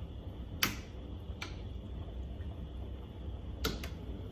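A few sharp clicks and knocks of cookware being handled: the loudest comes just after half a second in, another about a second later, and a quick double click near the end, over a steady low hum.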